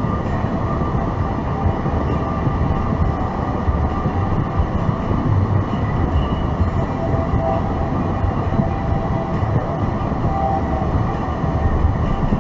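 Steady rumble of road and engine noise inside a moving car's cabin, with faint steady tones above it.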